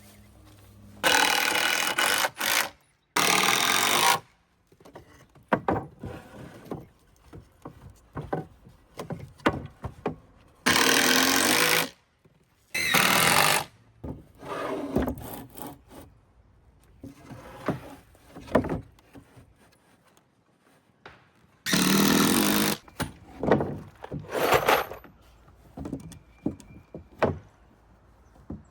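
A power tool working on wooden boards in five short bursts of about a second each, with knocks and clatter from handling the lumber between them.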